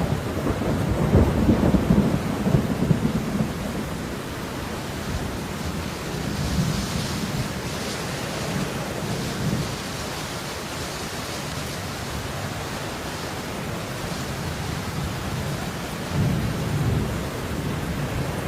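Steady falling rain with low rumbles of thunder, heaviest in the first few seconds and swelling again near the end.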